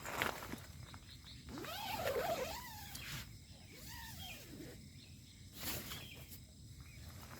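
Night outdoor ambience: faint steady insect chirring, with two wavering, arching animal calls and a few sharp knocks or clicks.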